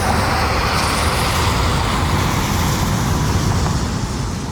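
Jet airliner engines running at high power: a steady, loud rush of noise with a faint whine.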